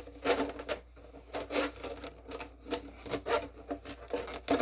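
Rubber suction cup rubbing and squeaking as it is handled and pressed, in a string of short strokes about two a second.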